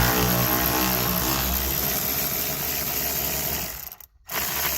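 Handheld power tool with a 13 mm socket on an extension spinning a nut off, a steady motor whirr that stops just before the end, then runs again briefly.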